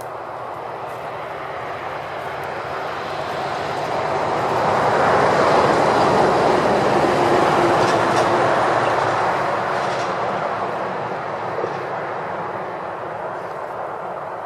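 A vehicle passing by: a rushing noise that builds for several seconds, peaks about halfway through, then fades away.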